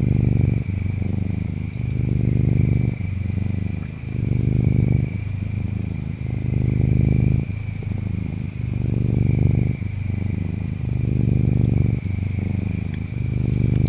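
Ginger tabby cat purring, a low rumble that swells and eases with each breath in and out, about every second. Under it runs a steady insect trill, with clusters of very high insect chirps every four to five seconds.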